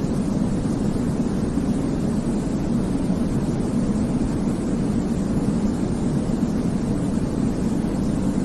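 Steady sleep-aid white noise for babies, weighted toward the low end so it comes across as a deep, even rumbling hiss, unchanging throughout.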